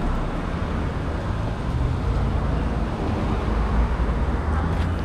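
Motorcycle running on the road, its steady low engine rumble mixed with road and wind noise.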